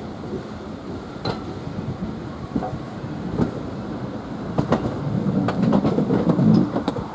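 Heritage train running slowly along jointed track, heard from the cab: a steady rumble of running gear with irregular clicks and knocks of wheels over rail joints. The rumble swells louder about five seconds in.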